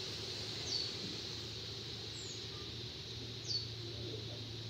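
A bird chirping: short high chirps that fall in pitch, about one every second and a half, over a low steady hum.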